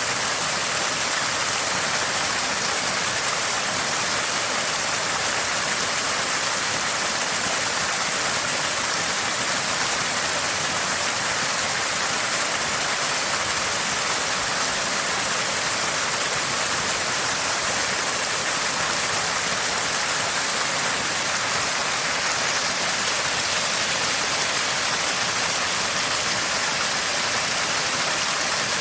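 Water gushing from a small spring, gurgling and splashing steadily in a bright, even rush.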